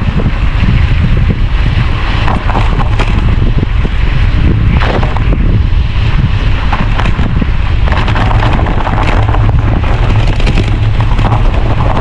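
Strong wind buffeting the microphone in a continuous heavy rumble, with scattered sharp crackles over it.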